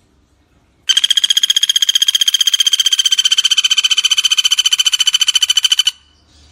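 Common flameback (pelatuk bawang) woodpecker giving its long rattling trill: a fast, even series of sharp notes, about eighteen a second, starting about a second in and cutting off after some five seconds.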